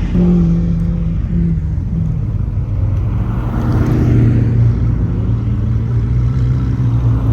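Loud supercar engine running under way. Its main tone drops in pitch about a second or two in, then holds steady while a higher tone slowly rises.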